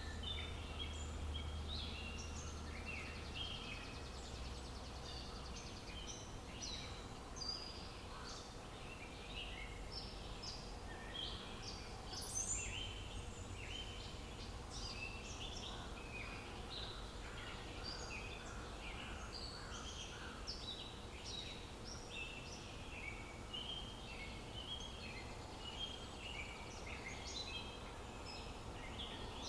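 Many small birds chirping and singing, a dense chorus of short chirps and trills, over a steady low outdoor rumble.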